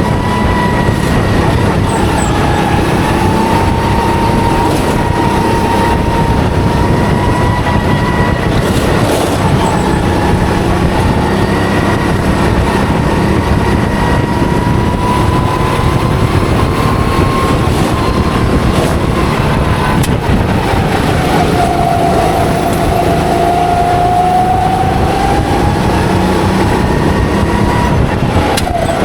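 Go-kart engine running at high revs, heard from on board the kart. Its pitch drifts up and down a little and drops lower for a few seconds about three-quarters of the way through, over a dense low rumble.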